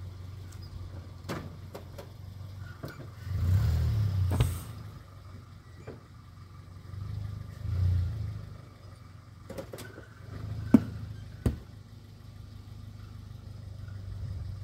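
Small hatchback car's engine idling, swelling louder twice as the car is eased forward onto a wooden ramp pressing on a tire to break its bead. A few sharp knocks come near the end, the loudest about two-thirds of the way through.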